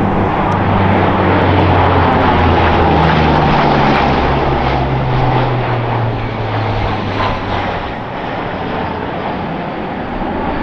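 Propeller-driven military aircraft flying past overhead, its engine drone dropping in pitch about three seconds in as it passes, then fading.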